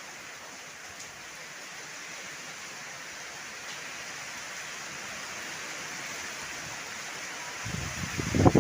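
Heavy rain falling as a steady hiss that slowly grows louder. Near the end a strong gust of wind buffets the microphone with a loud low rumble.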